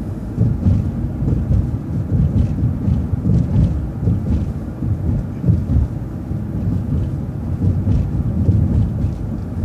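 Low, unsteady rumble of a city transit bus under way, heard from inside at the driver's seat: engine and road noise, with faint light rattles.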